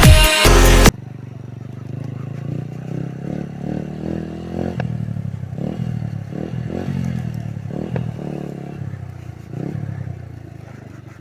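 Electronic music cuts off about a second in, then a Yamaha YBR125 motorcycle's single-cylinder engine runs, its pitch rising and falling over and over.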